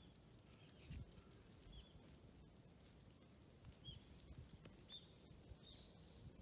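Near-silent outdoor background with faint, short high chirps of small birds repeating several times, and soft clicks and thumps of a tabby cat chewing wet food from a plastic dish.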